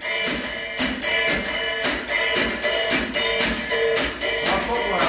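Drum kit played in a steady beat, with crisp hits about twice a second over a lingering ring.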